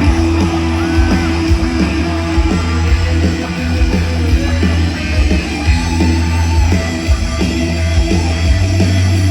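Live rock band playing an instrumental passage: heavy bass, drums and electric guitar at full volume, with no singing.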